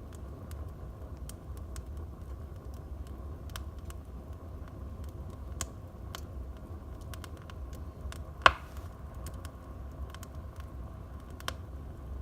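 Wood fire burning in a fireplace: a steady low rumble with scattered small crackles, and one loud pop about eight and a half seconds in.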